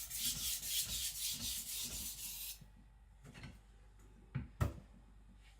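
Niolox-steel nakiri blade being stroked quickly back and forth on a wet whetstone, a rhythmic scraping hiss that stops about halfway through. Two sharp knocks follow shortly after.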